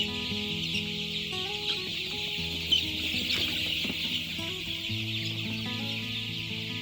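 Chickens clucking over soft background music of long held notes.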